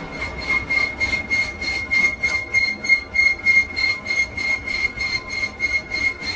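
Lathe cutting metal with a high-pitched squeal that pulses evenly about three times a second.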